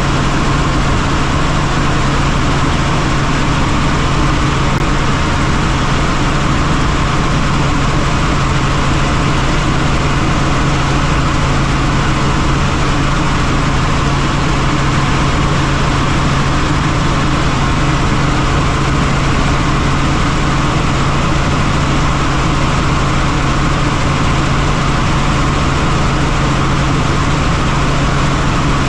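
Helicopter in flight: a loud, steady rotor and engine noise with a constant low hum that does not change.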